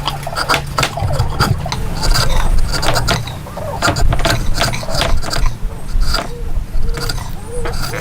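Irregular knocks and taps, roughly two to three a second, over a low steady hum.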